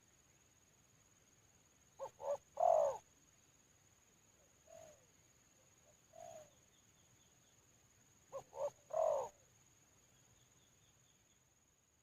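Spotted dove cooing: a three-note phrase of two short notes and a longer falling note, given twice about six seconds apart, with two softer single coos between them.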